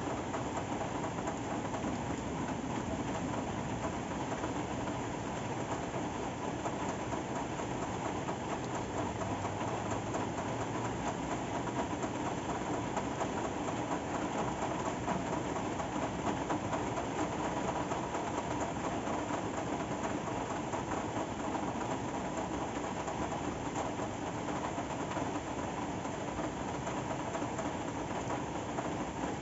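Steady rain falling, an even, unbroken hiss with no pauses or changes in level.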